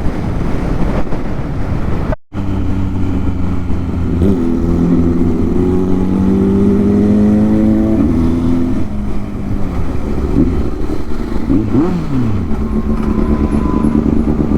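Sport motorcycle engine running and accelerating, its pitch climbing for several seconds and then dropping, followed by several quick rises and falls of revs. The sound cuts out for a moment about two seconds in.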